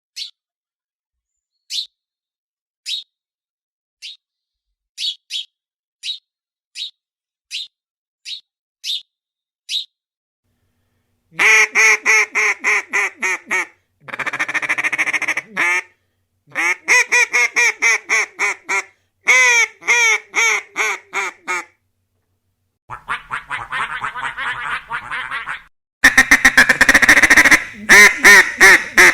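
Short single bird chirps, about one a second, for the first ten seconds. Then ducks quacking in fast runs of quacks, in several bouts with short pauses between them, loudest near the end.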